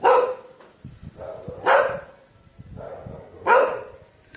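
A dog barking three times, with a pause of nearly two seconds between barks.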